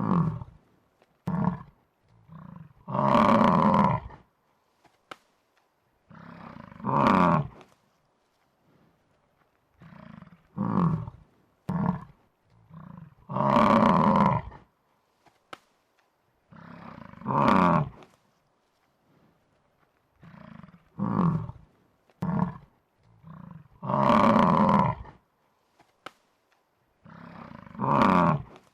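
Buffalo bellowing in a sound effect: short grunting calls and longer bellows of about a second, the same sequence repeating about every ten seconds.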